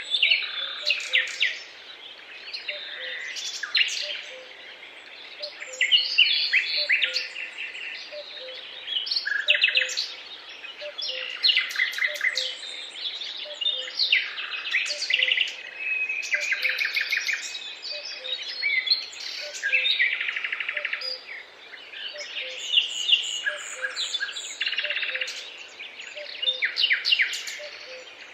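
Several songbirds singing together in a busy chorus of rapid trills, chirps and whistled phrases, overlapping in bursts. A faint low note repeats steadily underneath.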